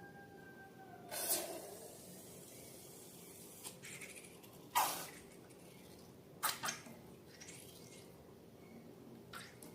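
Slime being squished and mixed by hand: a handful of short, wet squelches spaced a second or two apart.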